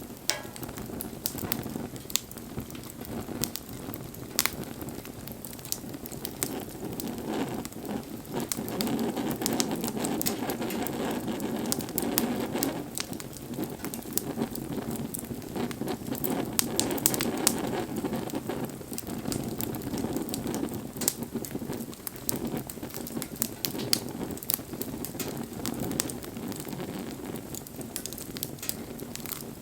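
Wood bonfire crackling with frequent sharp pops over a low, steady rush of burning flames that grows louder twice before settling back.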